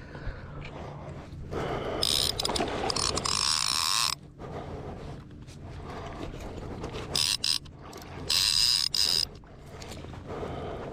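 Fishing reel ratcheting in bursts while a rainbow trout is played on the line: one long burst about two seconds in, then two shorter ones near the end.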